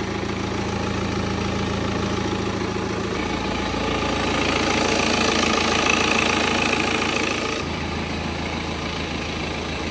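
BMW 520d's N47 four-cylinder turbodiesel idling steadily after a new timing chain, running smoothly. It gets a little louder and hissier for a few seconds in the middle.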